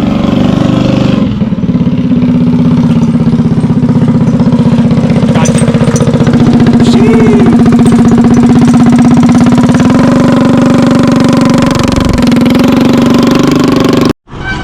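Go-kart's small engine running loudly at a steady speed, its firing pulse even and its pitch level. The sound cuts off suddenly near the end.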